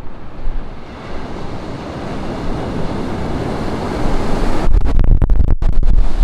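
Ocean surf on a beach: the wash of a wave builds up over a few seconds. About three-quarters of the way in, wind starts buffeting the microphone with a heavy low rumble.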